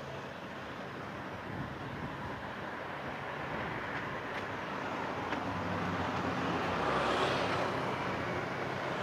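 Street traffic: the steady hum of motor vehicles on a busy road, growing louder as one passes about seven seconds in, then easing.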